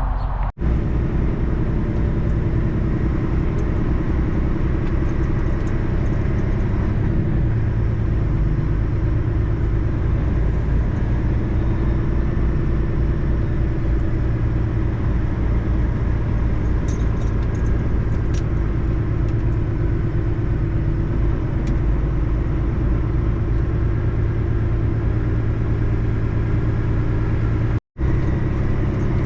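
Semi truck's engine and road noise heard inside the cab, a steady low rumble that cuts out briefly twice, about half a second in and near the end.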